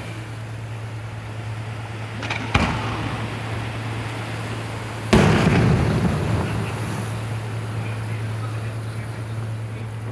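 Cannon fired with a blank: a short crack about two and a half seconds in, then a loud bang about five seconds in that dies away over a second or so, over a steady low hum.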